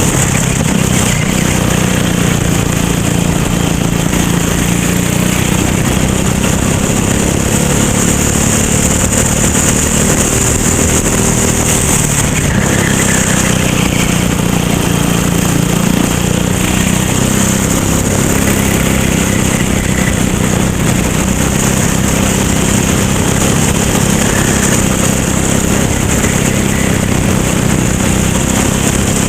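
Racing kart engine running steadily under load, its pitch rising and falling a little.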